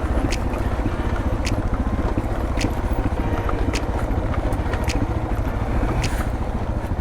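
Single-cylinder dual-sport motorcycle running at low revs down a rutted dirt trail. There is a steady rumble with wind noise on the helmet microphone, and sharp clicks about once a second.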